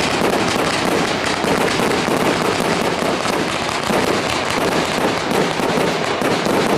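Fireworks display firing: many rapid pops and bangs run together without a break, as fans of comets and aerial shells go up in quick succession.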